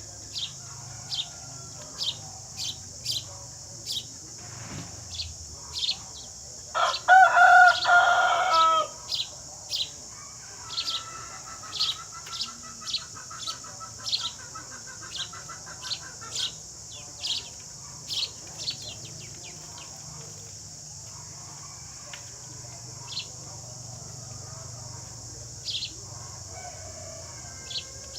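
Sparrows chirping: short high chirps repeated roughly once a second, with a rooster crowing loudly about seven seconds in and a fainter trilling call shortly after. A steady high hiss runs underneath.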